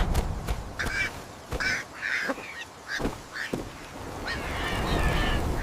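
A string of short bird calls, several in a row with gaps between them, over a low storm-like rumble that dies away about a second in and builds again near the end.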